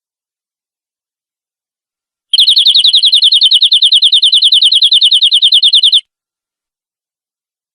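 Domestic canary singing a rapid, even trill of repeated high notes, about eleven a second. It starts a couple of seconds in, runs for nearly four seconds and cuts off suddenly.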